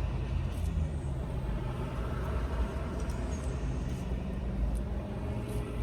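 Steady low rumble of a car's running engine heard from inside the cabin.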